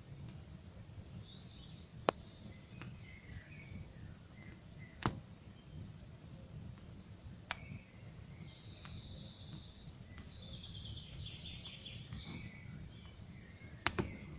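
Campfire burning with a steady low rumble and scattered sharp wood pops, four of them standing out loudly. Small songbirds chirp high above it, one giving a rapid trill through the middle.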